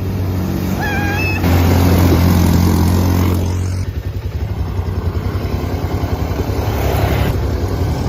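ATV engines running, loudest between about one and a half and four seconds in, with a brief high-pitched tone about a second in.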